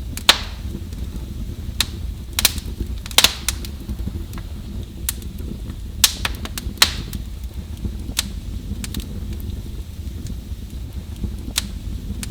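Wood fire crackling: sharp, irregular pops and snaps, about one a second, over a steady low rumble.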